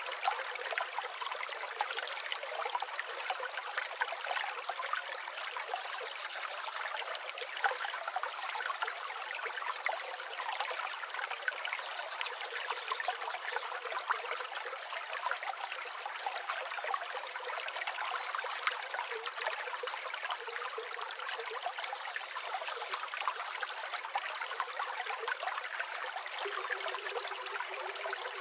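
A river flowing over rocks: a steady rush of water with constant small splashes and trickles, with no low rumble.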